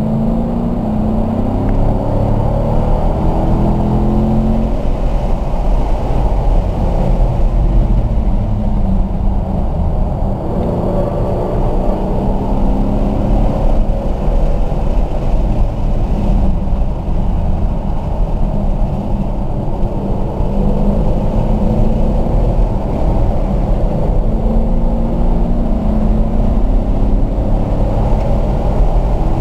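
Car engine heard from inside the cabin, pulling in third gear: its note rises over the first few seconds as the car accelerates, then holds at a steady pitch under road and wind noise, and begins to rise again near the end.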